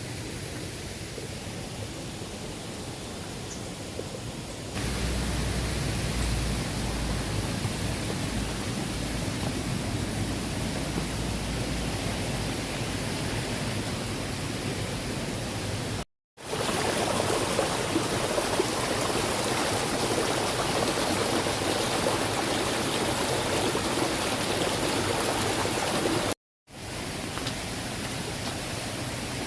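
Steady rushing of flowing water, a stream or waterfall. It grows louder about five seconds in, with a low rumble underneath for several seconds, and cuts out abruptly twice.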